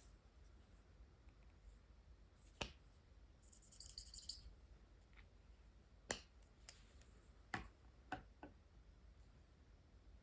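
Mostly quiet room with a handful of sharp, short clicks and taps from water-based markers being handled, and a brief high scratchy rustle about four seconds in.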